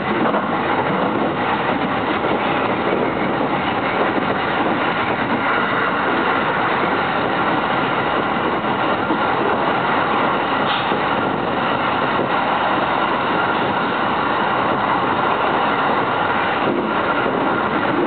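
Steady running noise of a JR East Narita Line commuter train at speed, wheels on rail, heard from inside the car.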